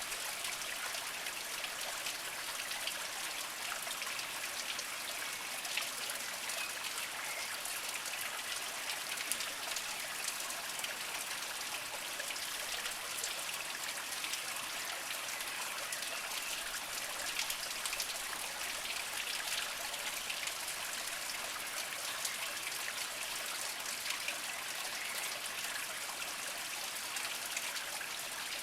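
Small mountain spring trickling over mossy rocks, a steady splashing and dribbling with many small droplet ticks.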